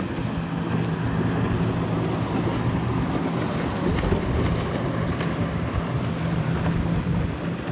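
A boat engine droning steadily at a low pitch, under wind buffeting the microphone.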